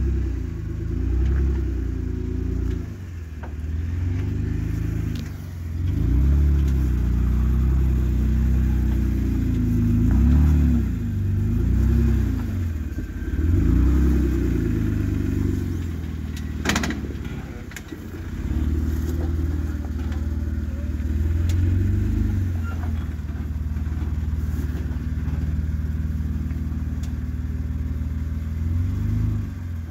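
Off-road 4x4's engine under load, revving up and falling back in repeated surges as it crawls over rocks, then running steadier for the last third. One sharp knock comes a little past halfway.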